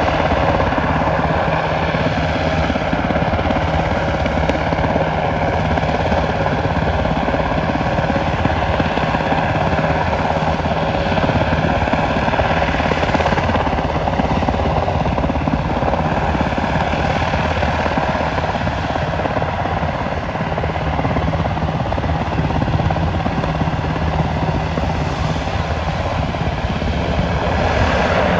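Helicopter in flight: its rotor beats in a fast, even pulse over a steady engine tone, holding a near-constant loudness throughout.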